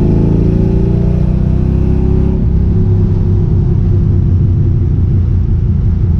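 Ford Mustang GT's 4.6-litre two-valve V8 accelerating, its pitch rising for about two seconds, then changing abruptly to a steady lower drone.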